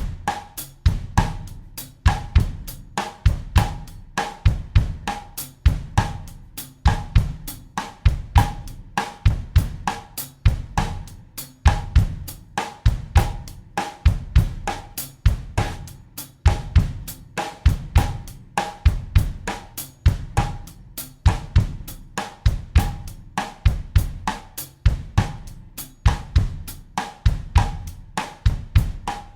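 Acoustic drum kit playing a bossa nova groove in 4/4 at 100 beats per minute, a steady repeating pattern.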